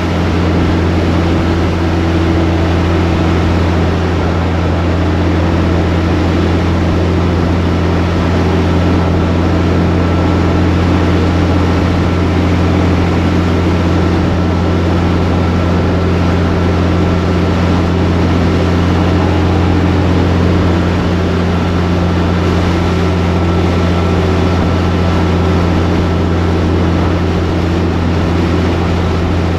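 Semi truck's diesel engine running steadily at cruise, a constant low drone heard from inside the cab along with road noise.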